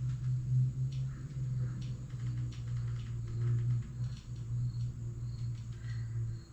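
A steady low hum with scattered light clicks and knocks. Faint insect chirping begins in the second half.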